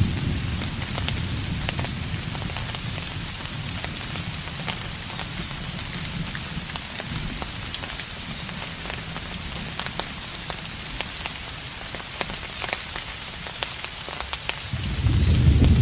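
Steady rain falling, with scattered distinct drop ticks. A low rumble of distant thunder fades over the first few seconds, and another starts to swell near the end.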